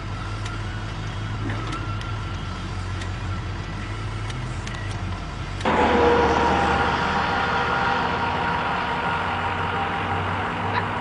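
Locomotives ploughing through deep snowdrifts. First a steady low engine drone, then about halfway through an abrupt cut to a louder rush of noise with several steady tones held over it.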